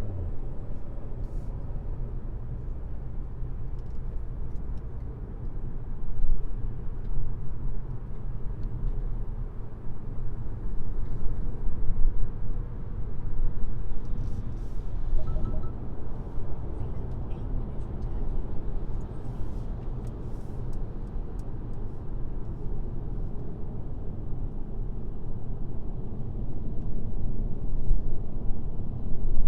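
A car driving at highway speed: a steady low rumble of road and tyre noise, with a few faint ticks and knocks.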